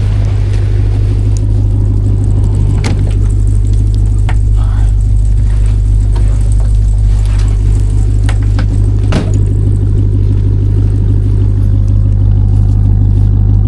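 Ram TRX's supercharged V8 running steadily during the recovery of a stuck car on an icy road, with two sharp knocks, one about three seconds in and one about nine seconds in.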